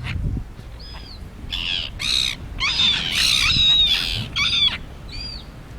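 Seagulls in a flock squawking, a string of short harsh calls, some overlapping, bunched through the middle and thinning out near the end.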